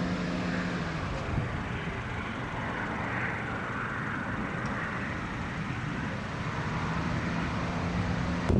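Steady road and engine noise of a moving vehicle, an even rushing hiss with a low hum near the start and again near the end.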